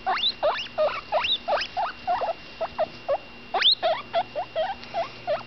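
Baby guinea pig squeaking in a quick run of short calls that rise in pitch, about three a second. Toward the end the calls get shorter and lower.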